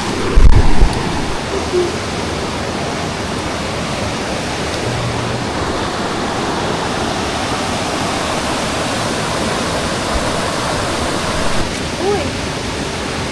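Waterfall rushing, a steady, even noise of falling water, with a couple of loud low thumps about half a second in.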